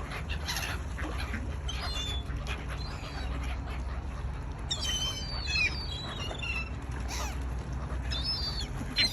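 Waterbirds calling while being fed bread, with a cluster of high, sweeping calls about halfway through and more near the end, over a low steady rumble.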